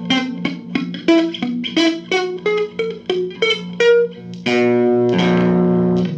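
Guitar music: a run of single plucked notes, then held, ringing chords from about two-thirds of the way in, the chord changing once.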